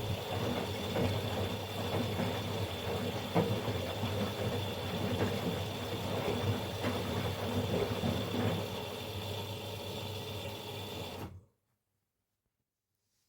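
Miele Professional PW 6065 washing machine drum turning during the softener rinse: motor hum with the load of soft toys sloshing and knocking in the water. About eleven seconds in the sound cuts out abruptly to total silence.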